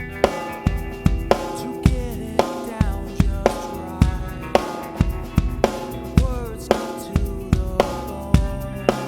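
Acoustic drum kit played along to a rock song, the kick drum and snare hitting in a steady groove over guitars whose notes bend up and down.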